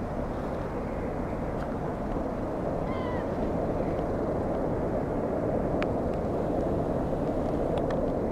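A single short, mewing gull call about three seconds in, over a steady low background rumble.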